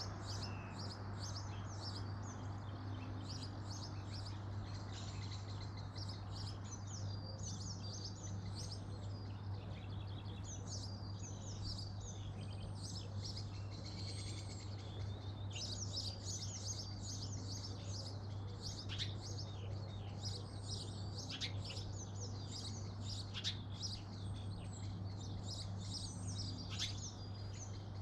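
Garden songbirds chirping and singing, several at once in a busy chorus of short, quick chirps and whistles, over a steady low hum.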